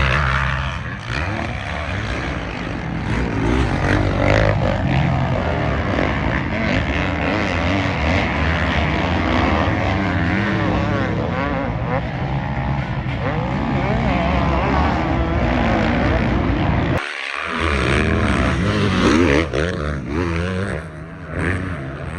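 Several motocross race engines running on the track, revving up and down so their pitch keeps rising and falling. There is a brief break in the low rumble about seventeen seconds in.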